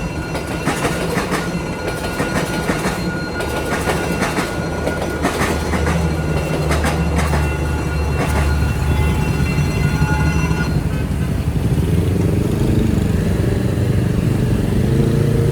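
Train rolling through a level crossing on the Vietnamese national railway, its wheels clicking over the rail joints with a steady high tone alongside. About ten seconds in the rail noise stops, and motorbike engines running at low speed take over.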